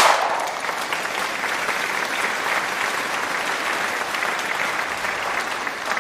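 Large outdoor crowd applauding, a dense steady clapping, as a loud firework bang dies away at the start.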